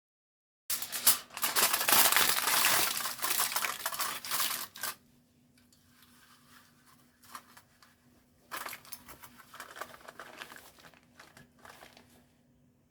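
Crinkling and rustling of something thin being handled, in two spells: a loud one starting about a second in and lasting some four seconds, then a fainter one a few seconds later.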